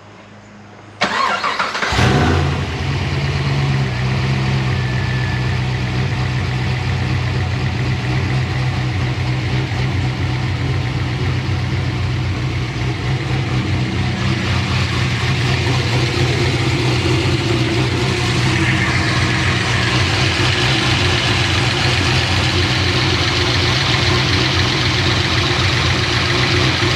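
Pontiac GTO's V8 started: a brief crank about a second in, catching just after, then settling into a steady idle.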